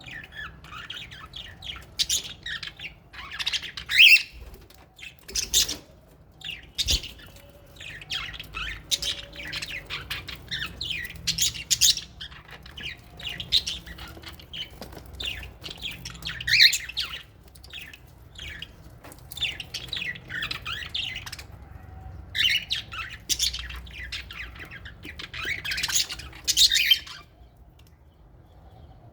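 A flock of small parrots, lovebirds and budgerigars, chirping and squawking in many short overlapping calls that die away near the end.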